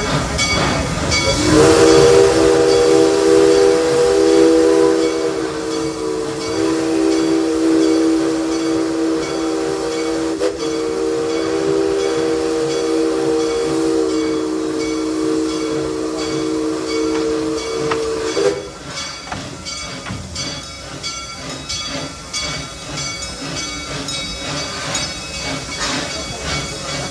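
A steam locomotive's chime whistle blows one long chord of several notes for about seventeen seconds. Once it stops, the engine goes on hissing with uneven chuffs as it works up a grade.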